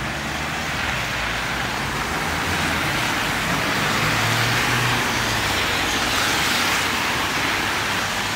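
Road traffic on a wet street: a steady hiss of tyres with a low engine hum, swelling in the middle as a vehicle passes.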